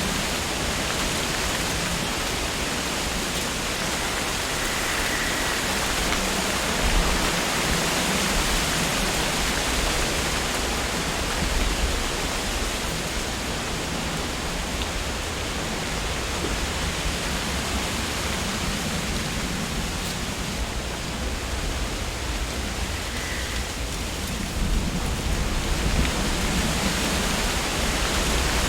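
Wind blowing through tree leaves: a steady rushing rustle that swells in gusts, loudest near the end, with a low rumble underneath.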